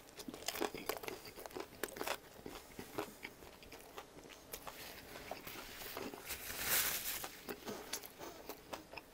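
Close-miked biting into and chewing of a BLT on a toasted bagel: many small irregular crunches and wet mouth clicks. There is a brief louder hiss about seven seconds in.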